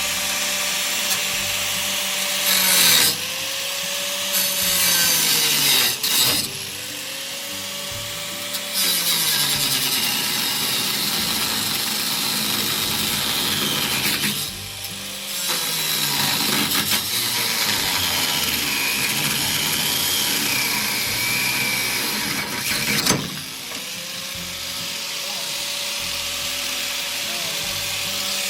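Electric grinder cutting into the steel fender of a 1950 Chevy 3100 truck: a high motor whine with a hiss of cutting, the motor's pitch sagging under load and climbing back several times, about three, six, fifteen and twenty-three seconds in.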